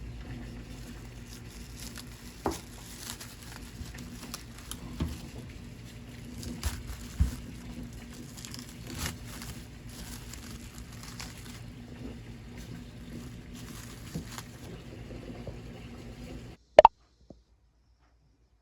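Kitchen food-preparation sounds: scattered light knocks, rustles and crinkles over a steady low hum. Near the end the background drops out suddenly, followed by one sharp click.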